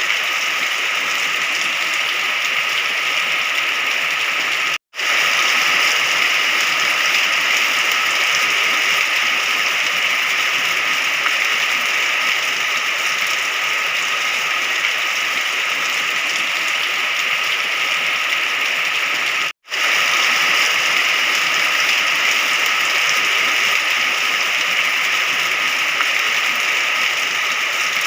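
Steady rain, a dense even hiss of falling drops. It cuts out to silence for an instant twice, about 5 and 20 seconds in.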